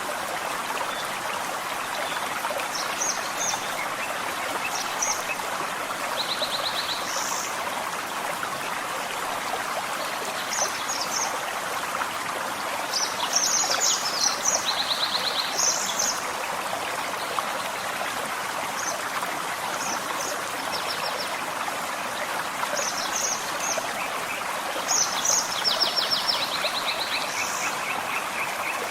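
Forest stream running steadily, with birds chirping over it: scattered short high calls and a few quick trills.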